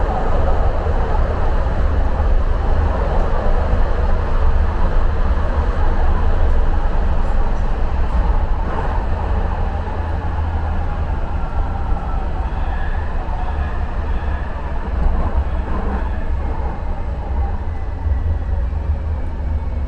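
Muni Metro light-rail train running through the subway tunnel: a steady rumble and rush of wheels on rails. It gets a little quieter in the second half as the train slows for the next station, with faint squealing tones about two-thirds of the way in.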